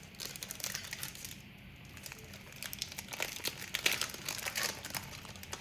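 Crinkling of a trading-card pack wrapper being handled and torn open, in two spells of crackling, a short one at the start and a longer, louder one from about halfway in.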